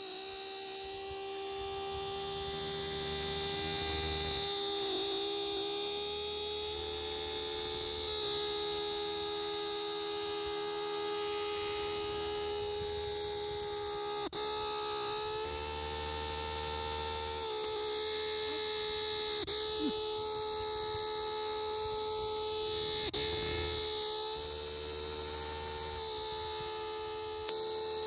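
Crickets trilling continuously in a dense, high-pitched chorus, with a steady lower drone beneath.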